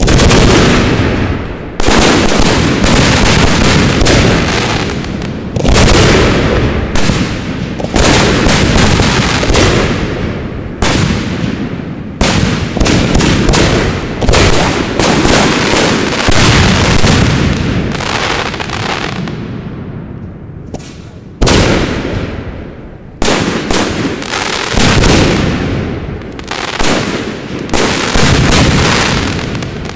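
Fireworks display: aerial ball shells bursting overhead in rapid succession, a loud bang every second or two with a rumbling echo between them. The barrage slackens briefly about two-thirds of the way through, then picks up again.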